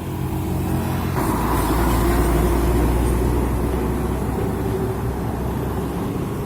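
Heavy road vehicle's engine running, swelling about a second in into a loud, deep rumble as it drives past, then slowly easing off.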